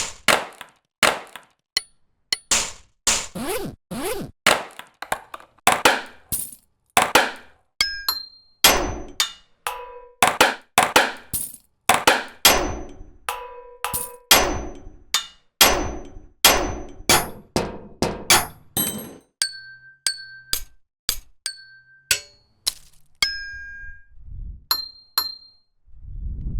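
One-shot percussion samples of street found-sounds played one after another, about one to two a second: metallic clangs, dings and thunks, each dying away before the next. The later hits are shorter, with a high ring, and a low thud comes at the very end.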